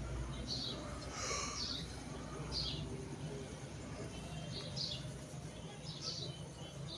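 A bird chirping in the background: short, high, falling chirps every second or so, over a low steady hum.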